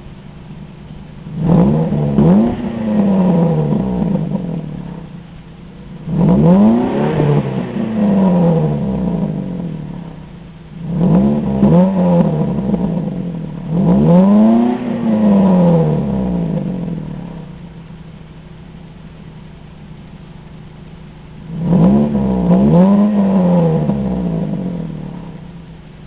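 Ford Focus ZX3's Zetec four-cylinder engine, breathing through a Steeda short ram intake and a Tsudo N1 aftermarket exhaust, free-revving from idle: five quick rev-ups that rise and fall back, several of them double blips, with the engine idling between.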